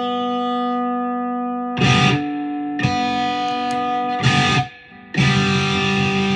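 Electric guitar played through distortion: three chords strummed and left to ring for one to two seconds each, with short scratchy strums between them and a brief pause before the last chord. The playing tests what the cheap copy guitar's knobs and pickup switch do to the sound.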